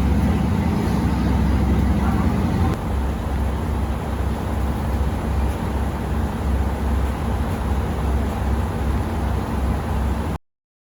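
Steady low rumble and hum of a train in motion, heard from inside the carriage, easing slightly a few seconds in; it cuts off suddenly near the end.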